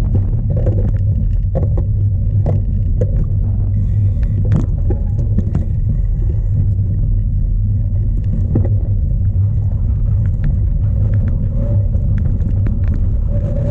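Strong wind buffeting the microphone of a bike-mounted onboard camera, a steady low rumble, with scattered clicks and knocks from the cyclocross bike rattling over rough ground.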